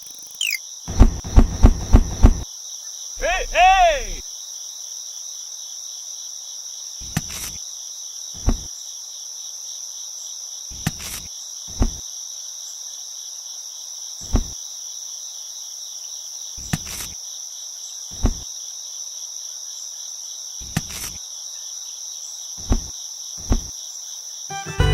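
Steady, high-pitched chirring of insects, cricket-like, with scattered sharp clicks. About a second in comes a quick run of several loud knocks, followed by a short sound that rises and falls in pitch.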